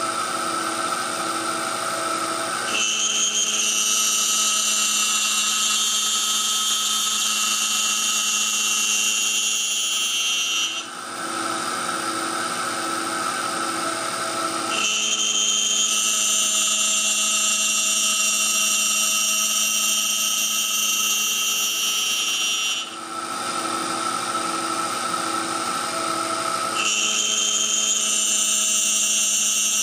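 A small CNC mill's spindle runs while machining a wooden insert, with a steady high-pitched whine. It goes in a repeating cycle: about eight seconds of a louder, shriller cutting sound, a brief dip, then a few quieter seconds with a pulsing hum at about two beats a second, with the shrill stretches starting about three, fifteen and twenty-seven seconds in.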